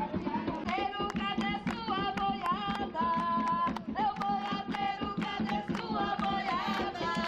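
Voices singing a devotional chant together, holding long notes, over a fast, steady percussion beat.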